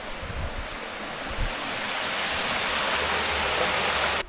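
Steady rush of flowing water from a mountain stream or small waterfall, growing louder over the first couple of seconds and cutting off abruptly near the end.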